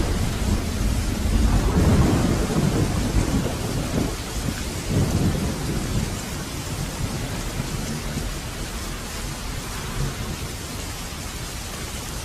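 Heavy rain falling steadily, with a roll of thunder that builds to its loudest about two seconds in and rumbles away over the following several seconds.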